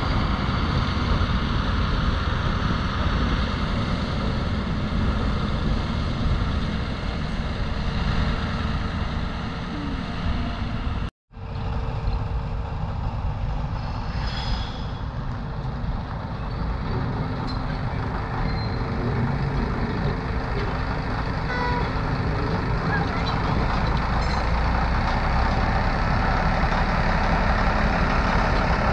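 A train running: a loud, steady rumble with faint steady tones over it, broken by a brief drop-out about eleven seconds in.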